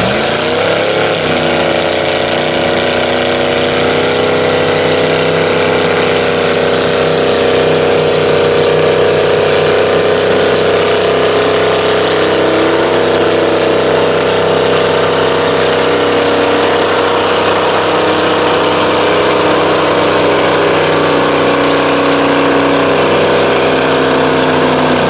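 Truck engine running hard at a steady speed, its pitch holding nearly constant, with only a slight waver about halfway.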